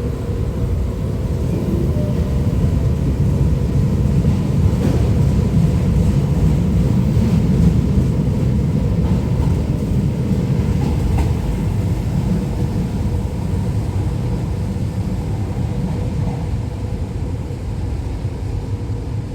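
An old Tyne and Wear Metro Metrocar electric train pulling out of the station: the steady, loud noise of its wheels and motors builds over the first few seconds and eases slightly toward the end, with a couple of faint clicks.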